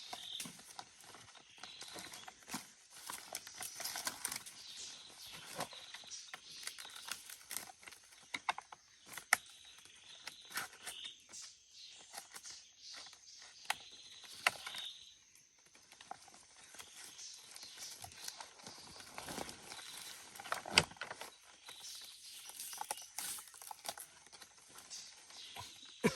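Irregular rustling with scattered clicks and knocks, as of hands and tools working at close range, one knock about two-thirds of the way through louder than the rest; a faint steady high hiss sits underneath.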